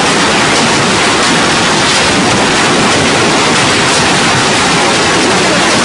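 Hail pounding down in a heavy, steady, loud clatter of countless stones striking at once.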